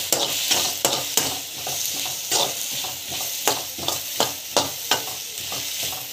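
Shallots, tomatoes and curry leaves sautéing in hot oil in a kadai, a steady sizzle, while a ladle stirs and scrapes the pan about twice a second.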